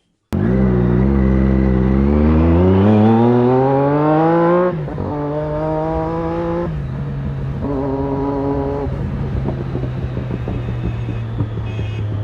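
Triumph Daytona 675R's inline three-cylinder engine through an aftermarket Torque exhaust, revved up steadily for about four seconds; then the throttle is released and it drops back, holds briefly, and settles to a steady idle.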